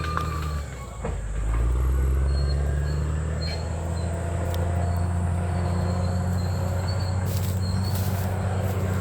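Bulldozer's diesel engine running under load. It dips briefly about a second in, then picks up again with a rise in pitch, and short high squeaks come and go over it.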